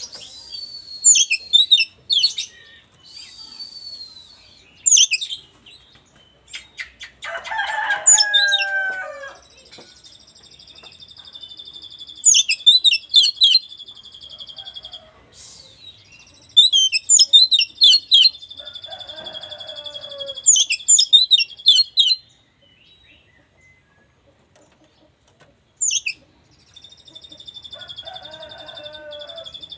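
Oriental magpie-robin singing: loud, sharp high whistled phrases broken up by long, steady buzzing trills held for several seconds, with a few lower, falling notes in between.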